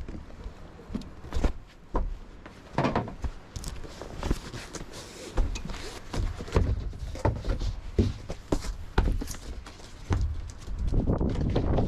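A series of irregular knocks and thuds, with wind rumbling on the microphone that picks up strongly near the end.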